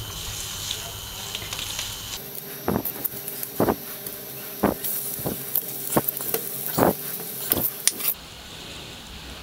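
Corn-flour-dusted potato patties set down one at a time on a hot oiled flat pan, about seven soft knocks roughly a second apart, over the steady hiss of sizzling oil for shallow frying.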